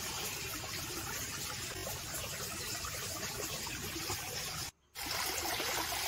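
Water trickling and running steadily in a small stream. The sound cuts out completely for a moment a little before the end.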